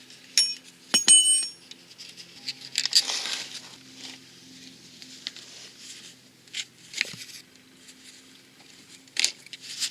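Metal hand tools and car suspension parts clinking and clattering. Two ringing metallic chinks come in the first second, followed by a short scraping rustle and a few scattered knocks.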